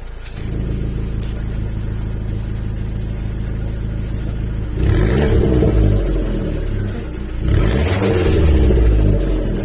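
Abarth Grande Punto's 1.4-litre turbocharged four-cylinder idling through a muffler-deleted exhaust, then revved twice, once about five seconds in and again about two and a half seconds later, each rev lasting about two seconds.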